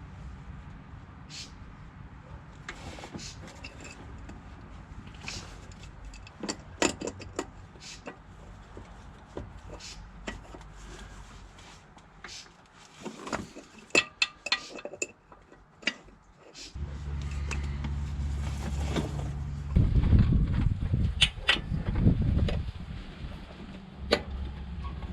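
Hand-tool clicks and knocks of brake-bleeding work at a wheel, then a steady low machine hum that starts abruptly about two-thirds of the way in and swells briefly before settling.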